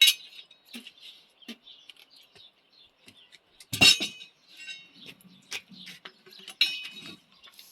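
Scattered short chirps of small birds, with sharp clinks among them, the loudest about four seconds in and again near the end.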